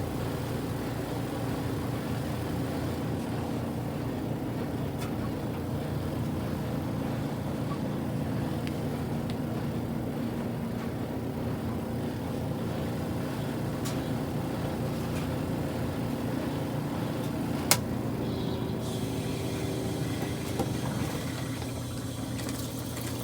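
Kuppet portable washing machine running, a steady motor hum. A single sharp click comes about eighteen seconds in.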